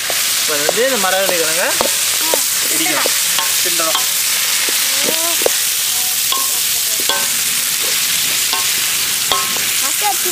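Boiled cassava pieces sizzling in hot oil with onions and chillies in a wok over a wood fire, stirred and tossed with a spatula.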